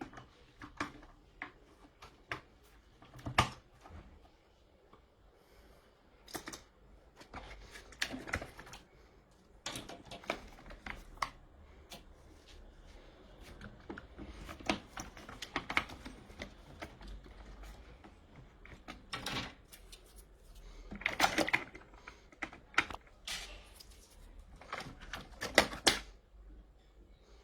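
Irregular clicks and knocks, a few at a time with pauses between them, some louder than the rest; no steady motor running.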